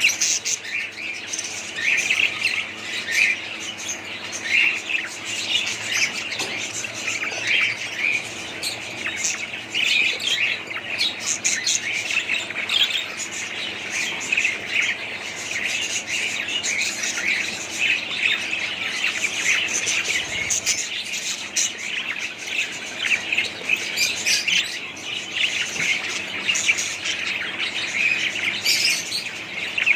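A group of budgerigars chirping and chattering without pause, with sharper, higher calls here and there.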